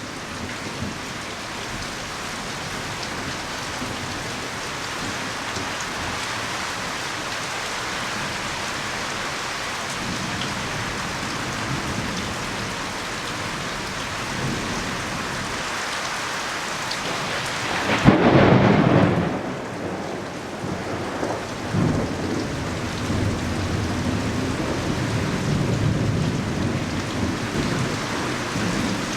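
Heavy rain falling steadily, driven by strong wind. About two-thirds of the way through comes a loud low rumble lasting a second or two, followed by uneven low buffeting.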